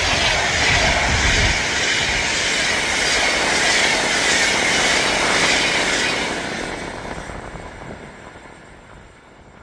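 Train passing close by at speed: wheels rushing and clicking over the track with a steady high ring, dying away over the last few seconds as it recedes.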